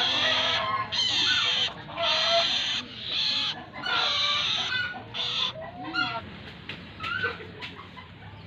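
Long-tailed shrike (cendet) giving a run of harsh, rasping calls, about five in the first five seconds, with short whistled notes between them; the calling thins out near the end.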